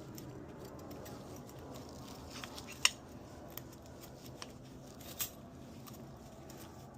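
Faint metallic clicks and ticks of piston rings being worked onto a piston by hand, with one sharper click about three seconds in and another a little after five seconds.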